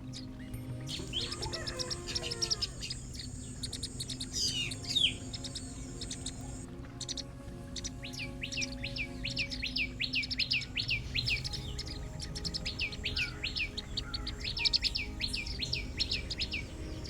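Small birds chirping in rapid runs of short, high chirps, with soft steady background music underneath.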